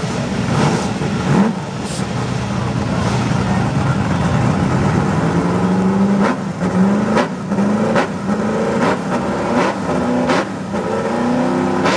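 Drag-race truck engine idling, then revved in quick rising blips about once a second through the second half, each rev ending in a sharp crack.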